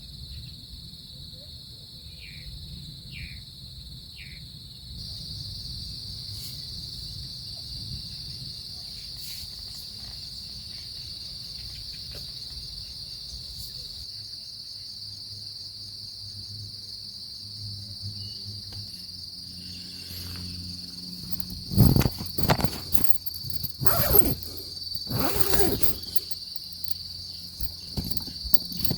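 Insects chirping in a steady high-pitched chorus that grows louder about five seconds in. In the last several seconds, a series of loud rustles and knocks sounds close by.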